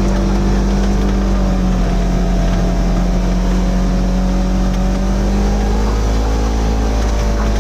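Engine running at a steady speed, a constant drone that holds its pitch.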